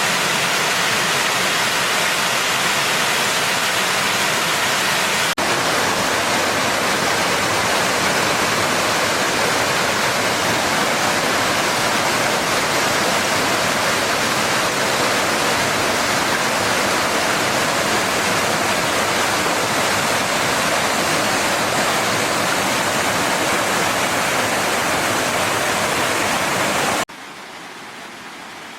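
Mountain valley stream rushing over rocks, a steady loud rush of water; it drops suddenly to a much quieter level near the end.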